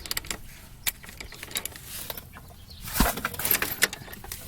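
Scattered metallic clicks and clinks of a hand tool on the rear shock mount bolt as it is checked for tightness, with a louder cluster about three seconds in.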